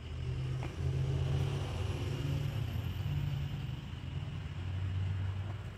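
A motor vehicle's engine rumbling low, its pitch stepping up and down as it revs. There is a light tap about half a second in.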